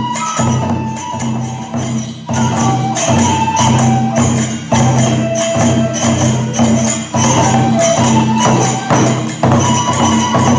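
Kagura dance music: a taiko drum and clashing hand cymbals keep up a fast, steady beat while a bamboo flute plays short held notes above.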